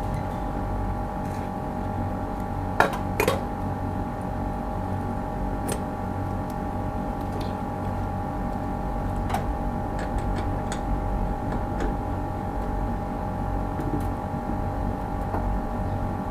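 A steady machine hum with a constant mid-pitched whine, and a few sharp clicks, two close together about three seconds in.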